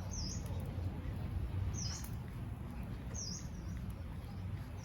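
A bird calling: a short, high chirp that dips and rises again, repeated four times about every second and a half, over a steady low rumble.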